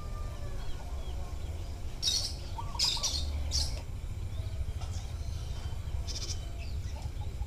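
Birds chirping: three short high calls about two, three and three and a half seconds in, with a few fainter calls between, over a steady low background rumble.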